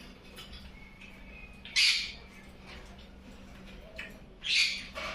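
A parrot squawking: two short, harsh squawks, one about two seconds in and another near the end.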